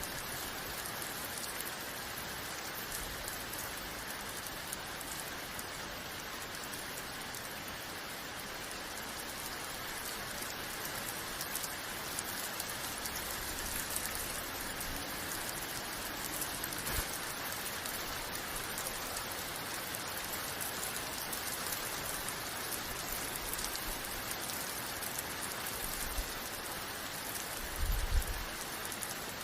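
Steady rain falling and pattering on a surface, an even hiss of drops. A brief low thump about a second before the end.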